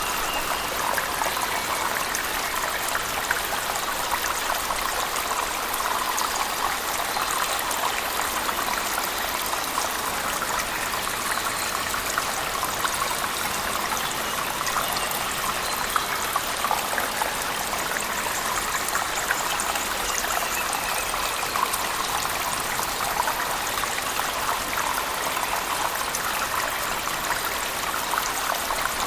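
Steady rush of falling water from a cave waterfall mixed with heavy rain, full of small splashes and drops.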